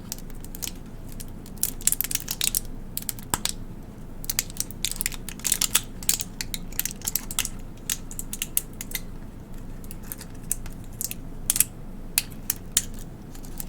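Listerine Ready Tabs plastic case and foil blister pack being handled close to the microphone: irregular crinkles, crackles and small clicks.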